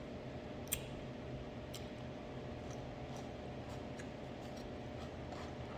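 Chewing a chili dog: a handful of short, soft mouth clicks, the sharpest about a second in, over a steady background hum.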